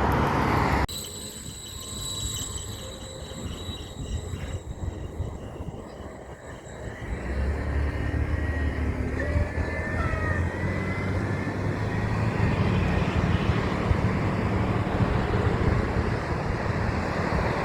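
Loud road noise cuts off abruptly about a second in. A heavy truck's engine rumble then builds from about seven seconds in and runs on, steady and low.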